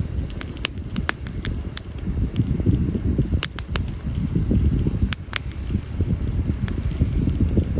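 Burning firewood in a campfire crackling, with about a dozen sharp pops scattered irregularly over a steady low rumble.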